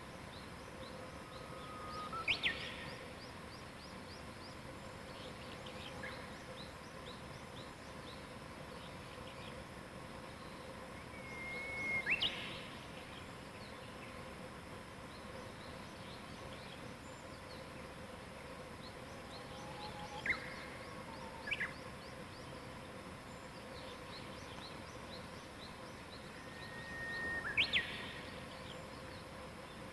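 Wild birds singing over a steady outdoor hiss: a louder songbird phrase, a held whistled note ending in a quick sweep up and down, comes four or five times, with fainter high chirps between.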